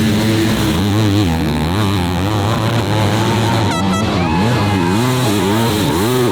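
Several 250cc four-stroke motocross bikes racing together, their engines revving up and down with the throttle and gear changes, the overlapping engine notes rising and falling.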